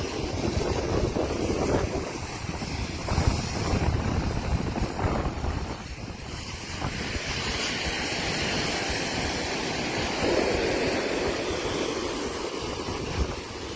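Strong onshore wind buffeting the microphone over the rush of breaking Atlantic surf. The low gusty rumble eases about halfway through, leaving more of the hiss of the waves.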